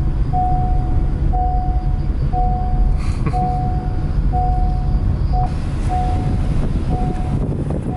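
Car engine and road noise heard from inside a rented drift car, a steady low rumble. Over it an electronic warning chime beeps about once a second, each beep in two tones.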